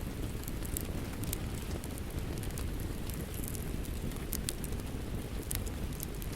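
Fireplace wood fire crackling, with scattered sharp pops, over a steady rush of rain falling outside.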